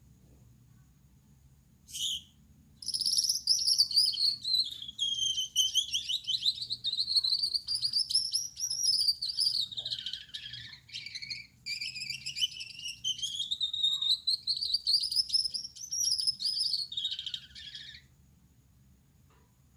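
Male Gouldian finch singing. A short note comes about two seconds in, then a long song of fast trilled notes whose pitch slowly sweeps down and back up, broken once by a brief pause about halfway through.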